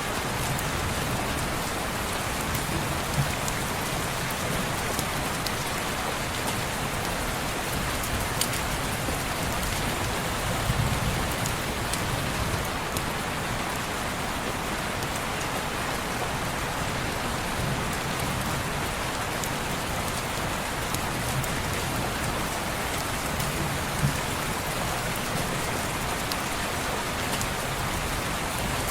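Steady rain falling on a window, an even hiss with scattered sharp ticks and a few louder pops.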